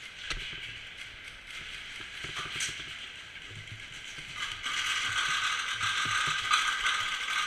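Rapid mechanical ratcheting and clicking from an airsoft gun's mechanism, growing denser and louder about four and a half seconds in.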